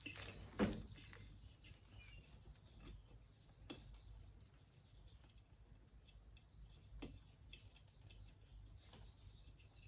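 Mostly quiet with a low steady hum, one sharp knock about half a second in and a few fainter clicks, as of parts and tools being handled during motorcycle reassembly.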